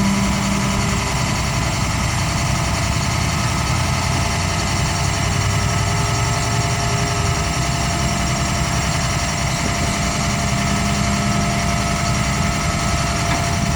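Flatbed tow truck's engine running steadily, with a constant whine riding over the low rumble.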